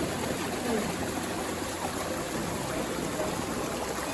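Running water flowing steadily: a small forest stream or spring.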